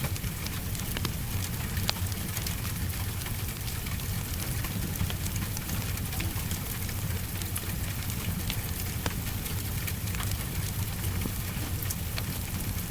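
Steady heavy rain with scattered sharp crackles from a wood fire, over a constant low rumble.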